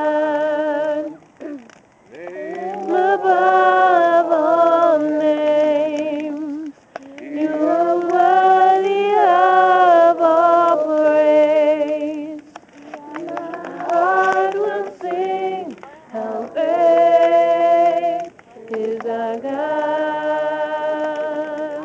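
A voice singing a slow melody in long held notes, phrase after phrase with short breaths between.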